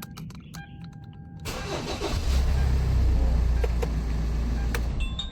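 Hyundai Tucson engine cranking, catching and running steadily. A few clicks and beeps come first; the start comes about a second and a half in, once the key fob has a fresh battery and the anti-theft immobilizer accepts the key.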